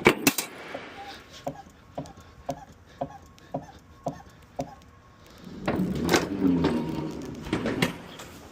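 A loaded hand cart being wheeled along: a sharp bang at the start, then even clicks about twice a second as it rolls. About five and a half seconds in comes a louder rolling rumble with a wavering pitched squeal.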